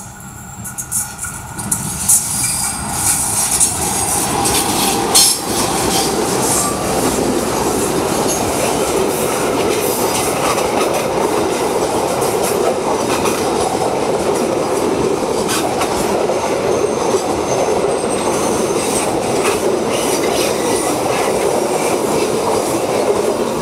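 Diesel-hauled passenger train passing close by. The sound builds over the first few seconds as the locomotive draws near, with sharp clicks from the wheels on the rails, then stays loud and steady as the coaches roll past.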